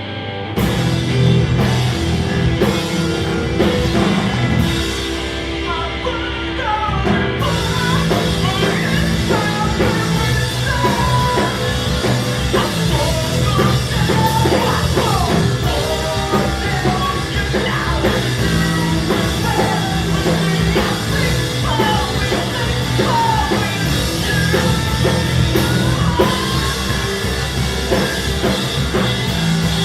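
Post-hardcore rock band playing live: distorted guitars, bass and drum kit come in loud about half a second in. Drum hits stand out over the first few seconds before the full band settles into a dense, heavy passage from about seven seconds.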